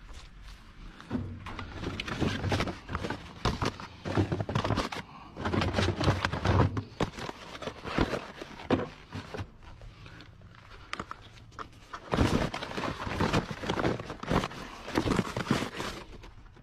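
Irregular thunks, knocks and scraping from a washing machine being handled and shifted about, coming in busy bursts with short lulls.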